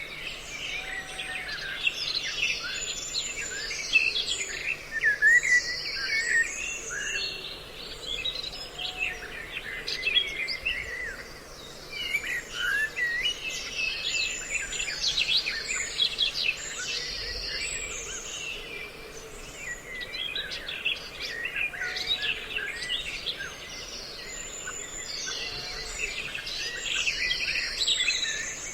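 Many small songbirds chirping and calling over one another in a dense, unbroken chorus of short whistles and trills: a mixed lure recording of several species' calls, made to draw birds in for trapping.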